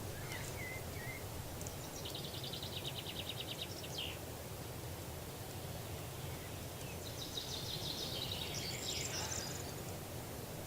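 Small forest songbirds singing: a rapid trill about two seconds in lasting about two seconds, then a longer, higher song near the end, over a steady low rumble.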